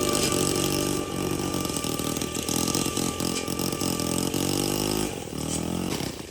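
A small engine running, its pitch rising and falling, fading out near the end.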